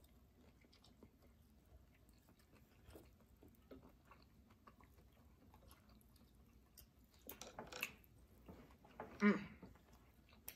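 Faint chewing and wet mouth sounds of people eating lobster tail meat, with scattered small clicks. There is a louder cluster of mouth noise about seven seconds in and a brief voiced sound about nine seconds in.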